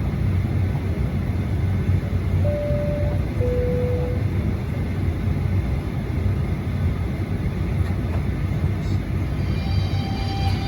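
Steady low rumble of a Boeing 737-800's cabin air before engine start, with a two-tone falling cabin chime about two and a half seconds in. Music begins near the end.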